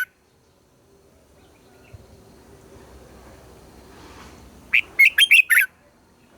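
Red-whiskered bulbul singing: a short, loud burst of about six quick whistled notes, rising and falling, about five seconds in, after a pause.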